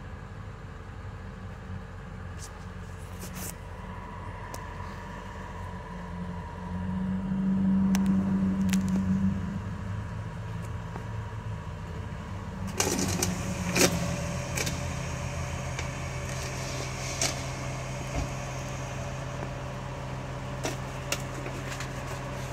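A steady machine hum, swelling louder for a couple of seconds near the middle, with scattered clicks and a short clatter about halfway through.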